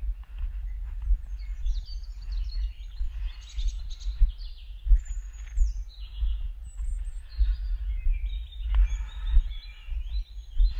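Several small songbirds singing and chirping in quick, varied phrases, over low thuds that recur about once a second from footsteps of someone walking.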